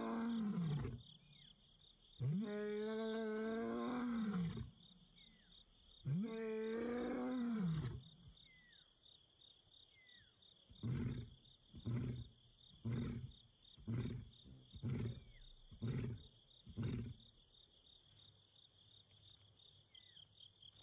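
Young male lion roaring, a contact call to a lost companion: one long moaning roar about a second in, then a second near the middle, followed by seven short grunts about one a second that fade toward the end. Crickets trill steadily underneath.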